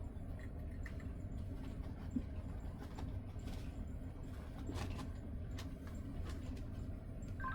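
Steady low hum of an air conditioner running close by, with a few faint scattered clicks and a short beep near the end.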